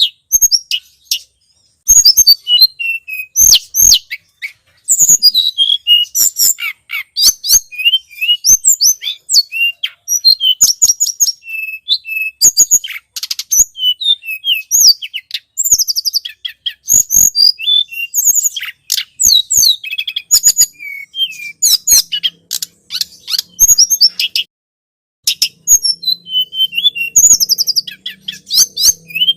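Bird-lure recording of the tledekan gunung, a small Indonesian songbird, calling in rapid, dense high-pitched chirps and trills, with a pause of about a second near the end. A faint low hum comes in during the last few seconds.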